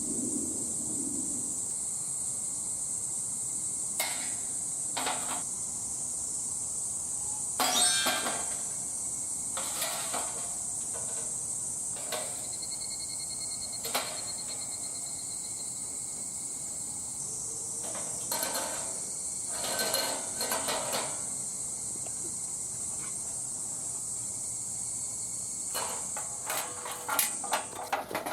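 Steady high-pitched chirring of insects, crickets, with scattered short clicks and knocks, a cluster about eight seconds in, another around twenty seconds, and a quick run of them near the end.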